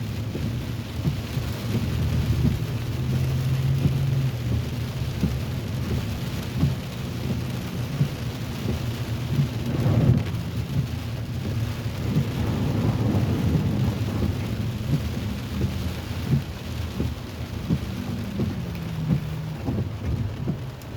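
Rain falling steadily over a continuous low rumble, with many short sharp taps of drops close by. The rumble swells louder about ten seconds in.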